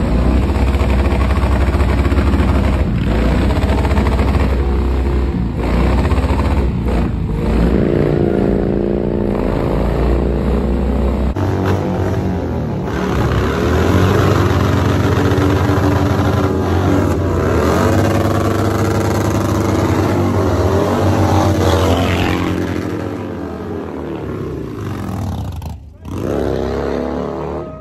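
Motorcycle engine revved again and again, its pitch climbing and falling with each blip of the throttle over a loud running rumble.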